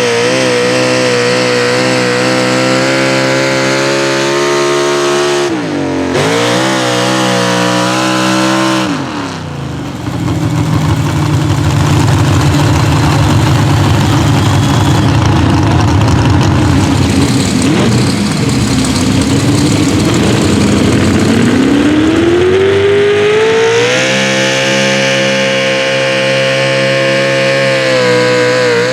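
Pro Stock four-wheel-drive pulling truck's engine running at high revs, with its pitch dipping and wavering twice in the first ten seconds. It then drops into a lower, rougher stretch, and near the end climbs back to a steady high pitch.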